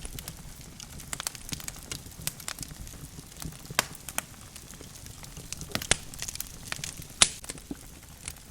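Logs burning in a wood fireplace, crackling with irregular sharp pops over a steady low rumble of flame. The loudest pop comes about seven seconds in.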